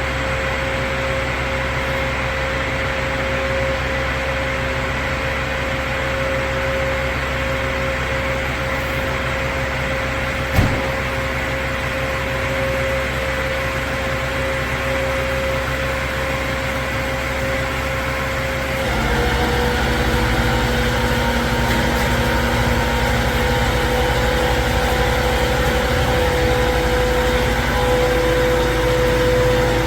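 A rollback tow truck's engine running steadily, with one sharp click about ten seconds in. About nineteen seconds in the note changes and grows louder.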